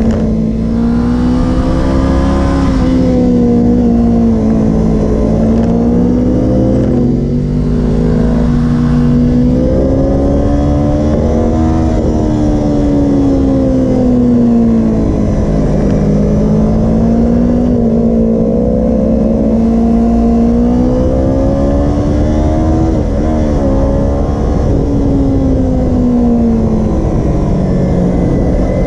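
Kawasaki Ninja 250R's parallel-twin engine heard from on board under riding load, its pitch rising and falling repeatedly as the rider accelerates and rolls off, with a few sudden drops in pitch.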